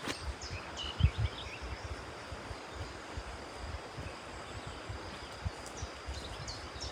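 Outdoor ambience with a few short bird chirps, some near the start and more near the end, over a steady hiss and an irregular low rumble.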